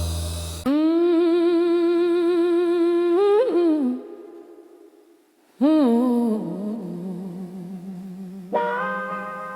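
Wordless humming in a slow blues song: one long held note with vibrato that breaks off about four seconds in. After a second or so of near silence, more held, sliding notes take over.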